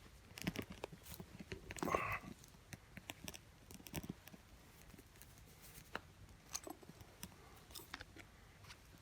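Small wood fire crackling, with irregular sharp pops and one louder crackle about two seconds in.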